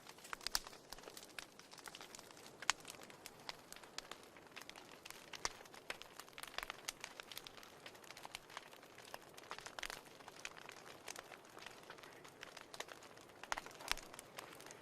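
Wood fire burning in a fireplace: a soft steady hiss with frequent sharp, irregular crackles and pops.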